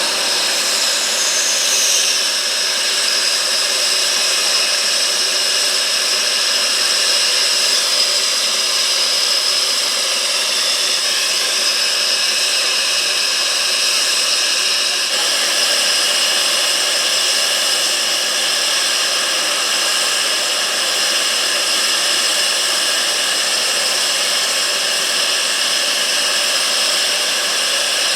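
Jet engines of a Panavia Tornado running, a steady loud whine of several high tones over a rushing noise, shifting slightly in pitch about two seconds and eleven seconds in.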